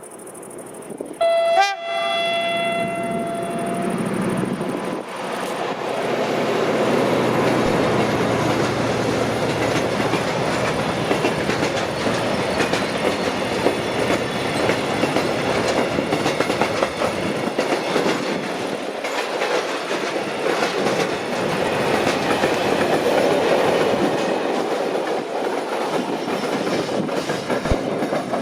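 A train sounds its horn about a second in, a short loud blast that trails off into a steadier tone, then passes with a steady rumble and clatter of wheels on the rails for over twenty seconds.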